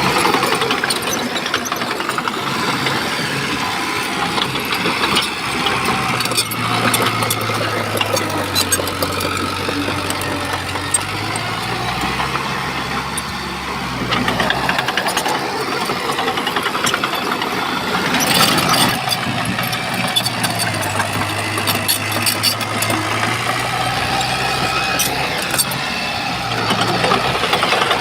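Diesel engine of a Shantui crawler bulldozer running under load, its note dipping and rising as it works, with scattered clanks.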